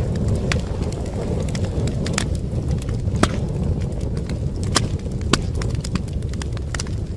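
Wood fire in a fireplace crackling: a steady low roar of flames with irregular sharp pops and snaps from the burning logs, the loudest a little past three seconds in.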